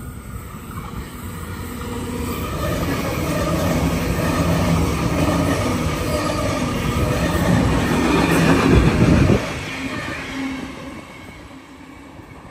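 Sydney Trains electric passenger train passing through the station. Rail noise and a steady low hum build up, then drop off sharply about nine seconds in as the end of the train goes by, and fade away.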